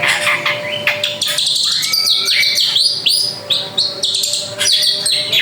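A drongo (srigunting) singing vigorously: a rapid, varied stream of clear whistles, chirps and rising and falling glides with hardly a pause.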